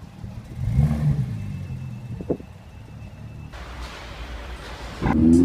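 Car engines on a street. One engine note rises about a second in. A rushing noise of passing traffic starts about three and a half seconds in, and near the end a louder engine revs up, its pitch climbing.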